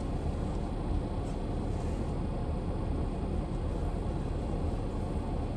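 A car running, heard from inside the cabin as a steady low rumble.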